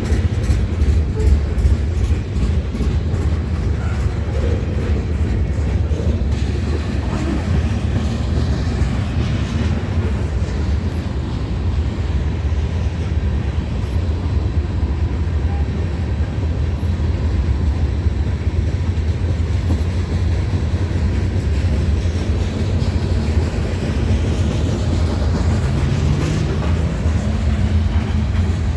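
A train rolling past, a steady low rumble with a regular clicking through the first several seconds.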